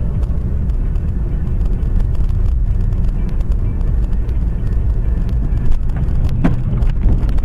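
Steady low rumble of a car on the move, engine and road noise as picked up by a dashcam, with a couple of short knocks near the end.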